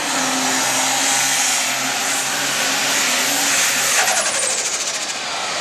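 Hot farm class pulling tractor's turbocharged diesel engine running flat out under load, pulling the sled, with a high steady turbo whine over it. About four seconds in the engine comes off full power and the turbo whine falls away.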